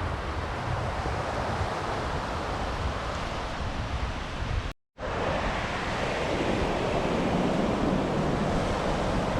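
Sea surf washing onto a beach, mixed with wind buffeting the microphone, as a steady rushing noise. The sound drops out completely for a split second just before the middle, then comes back a little fuller.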